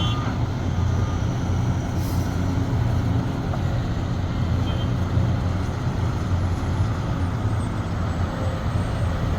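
Heavy diesel excavator engine running steadily with a low rumble, with a brief hiss about two seconds in.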